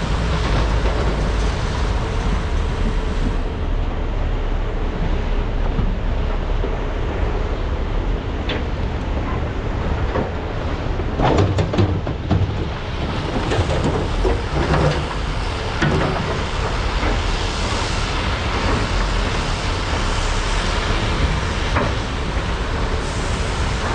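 Large hydraulic excavators' diesel engines running steadily while loading, with a cluster of loud clanks and knocks about halfway through and a few more some seconds later.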